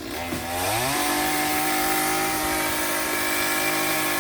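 Two-stroke chainsaw revved from idle up to full throttle about half a second in, held at a steady high pitch, then let back down at the very end.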